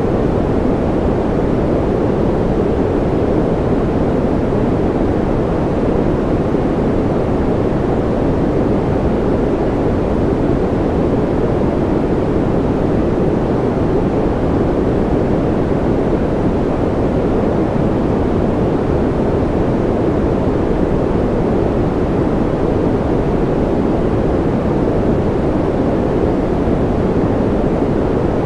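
Steady white noise, deep and rumbly, with most of its weight in the low-middle range and little hiss, unchanging throughout.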